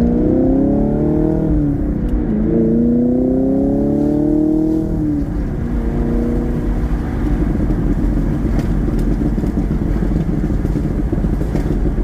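Car engine revving: its pitch dips about two seconds in, climbs until about five seconds, then drops into a steadier rumbling run. A few faint crackles from the exhaust come in the later part.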